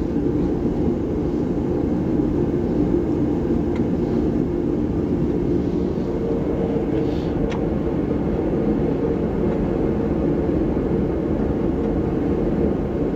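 Steady low mechanical drone with a faint hum and no change in pitch or level, with a couple of faint light ticks about 4 and 7.5 seconds in.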